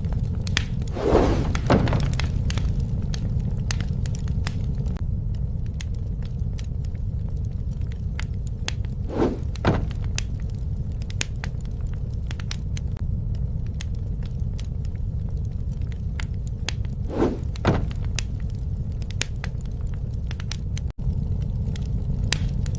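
Campfire burning: a steady low rumble with frequent sharp crackles and pops from the burning wood. A soft double thump sounds three times, about eight seconds apart.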